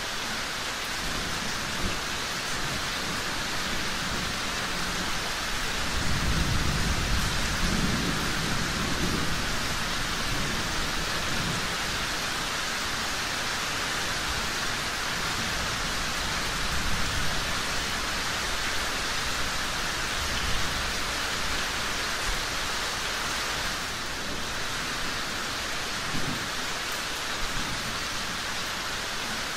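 Steady rain falling, with a low rumble of distant thunder that swells about six seconds in and fades over several seconds. A few soft knocks stand out over the rain later on.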